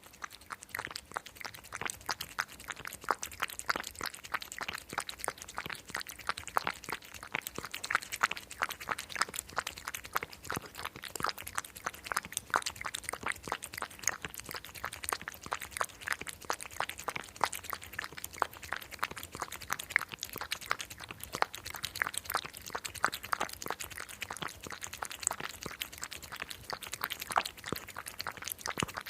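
Cat licking its paw: a steady, irregular run of small, quick licking clicks, several a second.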